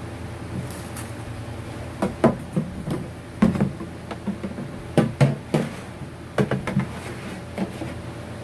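Hard objects being handled and knocked together: clusters of sharp knocks and clatters every second or so, over a steady low hum.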